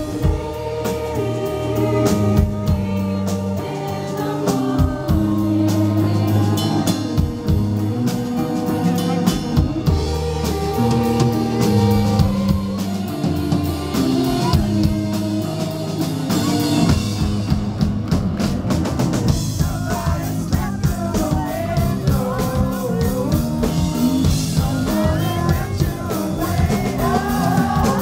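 Live rock band playing a song: drum kit and instruments, with singing that comes through more clearly in the second half.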